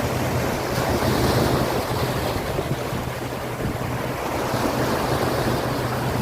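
Wind buffeting the microphone over the wash of sea waves, with a steady low hum underneath.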